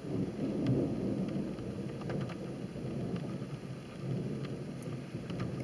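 Thunder rumbling low and long after a lightning strike, swelling in the first half second and rolling on with an uneven, fluttering rumble.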